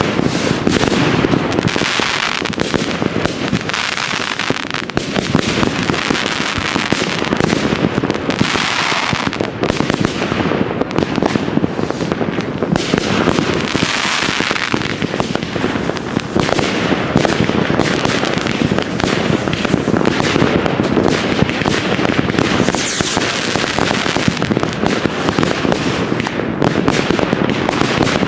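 Dense, unbroken barrage of fireworks: many overlapping bangs from rockets and firecrackers mixed with crackling, with no pause.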